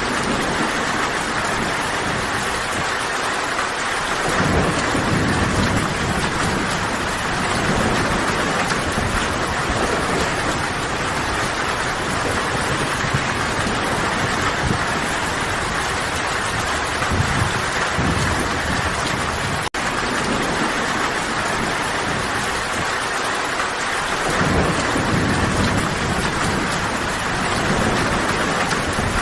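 Steady rainfall, with low rolling thunder swelling up twice: about four seconds in and again near the end. There is a momentary dropout a little past the middle.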